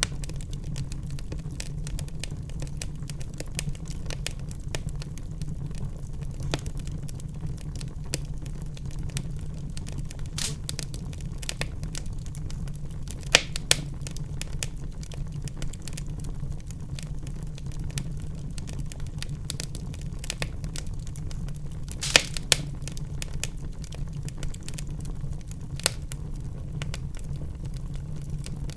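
Wood fire burning in a fireplace: a steady low rumble of the flames with constant crackling and popping, a few sharper pops at about 13 and 22 seconds in.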